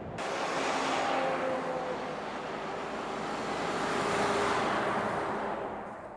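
A road vehicle driving past: tyre and wind noise with a faint hum that slides slowly down in pitch, swelling twice and fading. The sound cuts in and out abruptly at edit points.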